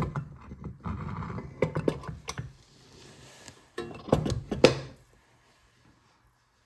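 Metal clinks and knocks of small-engine parts being handled as the crankshaft is fitted back into the engine block. A run of clicks comes first, then a second cluster of knocks about four seconds in.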